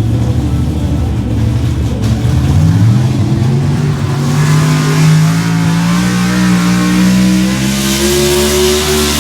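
A pulling truck's engine running hard under load. Its pitch climbs about two and a half seconds in, holds steady, then rises again near the end, while a loud hiss builds from about four seconds on.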